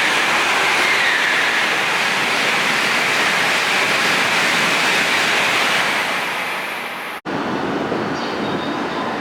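Shinkansen train going by at the platform: a loud, steady rushing noise with a high whine that dips in pitch in the first couple of seconds. About seven seconds in it cuts off abruptly to a quieter train sound.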